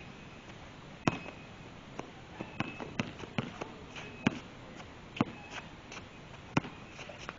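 A basketball bouncing on a court with sharp, irregular thuds about seven times, and a few short high squeaks in between.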